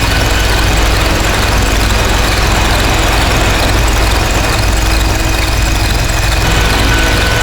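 Harsh noise drone: a dense, loud wall of distorted noise over a heavy low drone, from DIY noise synths run through distortion, delay and looper pedals. Steady high whistling tones sit on top; one drops out about a second in and comes back near the end.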